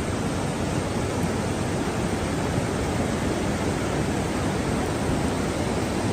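Steady, even rushing of water from a heavy storm, with no change in level.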